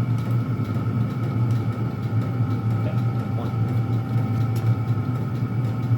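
Several Chinese diesel air heaters running together, a steady low hum with a thin, constant fan whine above it. They have just been switched to low and are cycling down.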